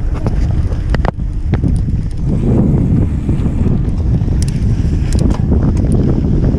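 Wind buffeting the microphone of an on-board camera on a moving mountain bike, a heavy low rumble, with sharp clicks and rattles from the bike over the trail about a second in and again around four to five seconds in.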